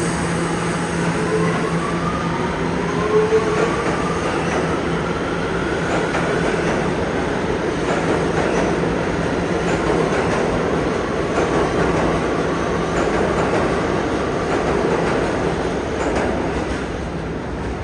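R211A New York City subway train running on the track, wheels rumbling and clattering. In the first few seconds its motors give a whine that rises in pitch.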